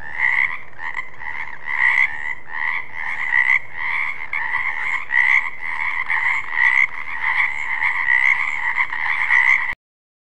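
Frogs croaking in a steady, unbroken run of repeated calls, about two a second, that cuts off suddenly near the end.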